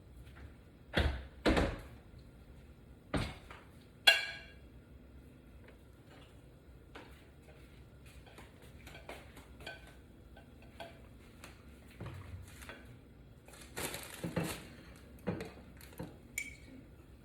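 Kitchen clatter of dishes and utensils being handled: two dull thuds, a knock, then a sharp clink that rings briefly about four seconds in, followed by faint scattered knocks and a busier spell of clattering near the end.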